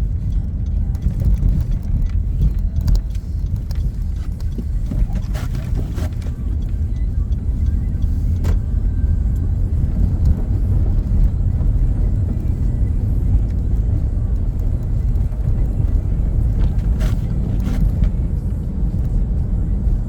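A moving car's road and engine noise: a steady low rumble, with a few short clicks now and then.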